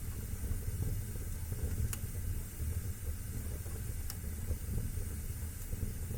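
Wood fire burning in a fireplace: a steady low rumble and hiss, with two sharp crackles about two seconds apart.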